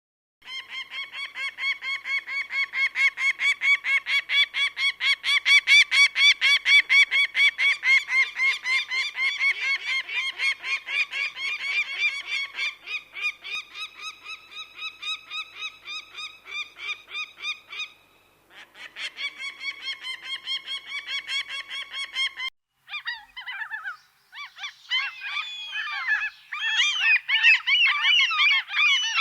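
Birds calling: a fast, steady run of repeated honking calls, several a second. After a short break near the end, a busier, jumbled chorus of many overlapping calls follows.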